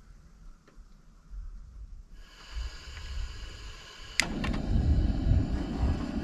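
A gas camp stove burner being lit under a pot of oil: gas hissing from about two seconds in, a sharp igniter click about four seconds in, then the flame catching and running with a steady low roar as the oil starts heating.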